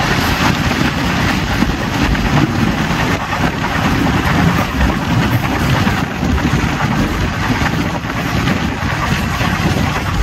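Express train running at speed, heard from on board an old ICF coach: a steady rumble of wheels on rail mixed with rushing wind that buffets the microphone.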